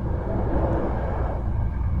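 Hankyu 1300 series electric commuter train running, heard from inside the car: a steady low rumble of wheels on rail and running gear.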